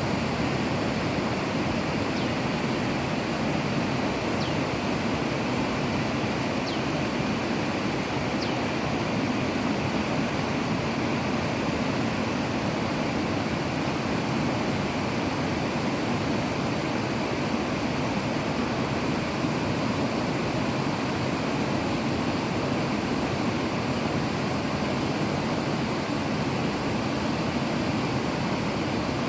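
Steady rushing water, an even noise that holds at one level throughout, with a few faint high ticks in the first ten seconds.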